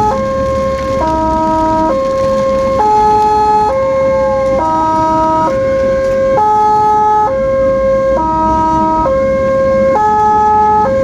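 Ambulance siren in two-tone mode, alternating between a high and a low note roughly once a second, over low engine and road rumble.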